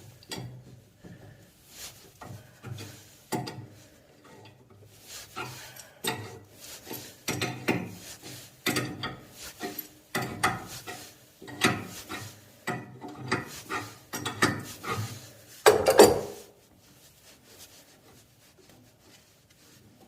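Metal tools clinking, knocking and scraping on brass pipe fittings as the shaft assembly of a failed heating-manifold solenoid valve is worked loose and unscrewed. The strokes come in irregular clusters, with the loudest clank about sixteen seconds in, after which the noise stops.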